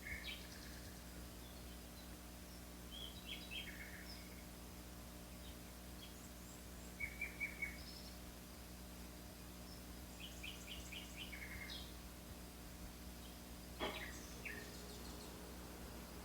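Songbirds calling in short phrases of quick, repeated high notes, over a faint steady background hum. A single knock sounds a couple of seconds before the end.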